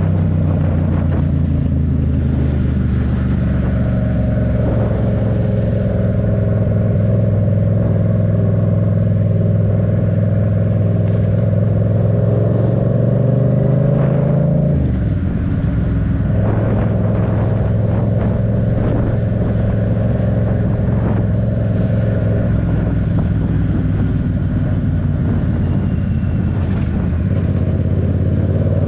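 Yamaha MT-07's parallel-twin engine running at steady revs while riding. The pitch falls sharply about halfway through, then holds steady again.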